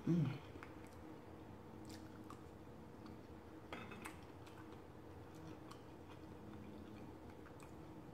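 Close-mic chewing and mouth sounds of a person eating a forkful of caprese salad with tomato, opening with a short hummed "mm", the loudest sound. A brief fork-on-plate noise comes about four seconds in.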